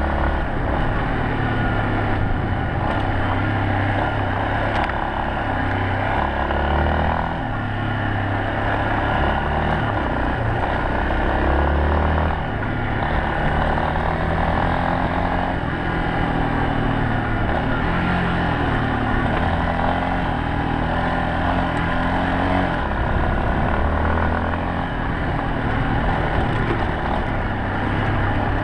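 Yamaha Serow 250's air-cooled single-cylinder four-stroke engine running under way, its pitch rising and falling repeatedly with the throttle, over a steady rush of wind and road noise.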